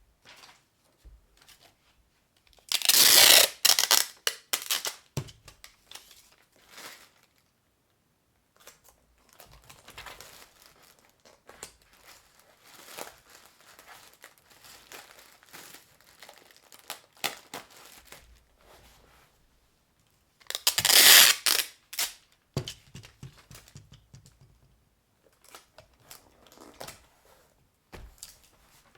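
Packing material being handled while a parcel is packed: two loud tearing sounds, each about a second and a half long, the first a few seconds in and the second about two-thirds of the way through, with quieter crinkling and rustling in between and after.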